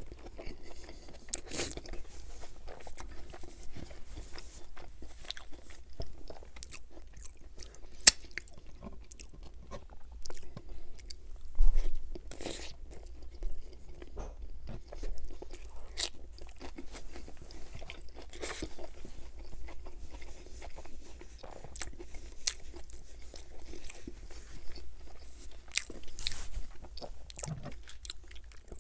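Close-miked chewing of a Burger King Whopper Jr. burger: soft, moist mouth sounds with many small irregular clicks and crunches as the mouthful is worked.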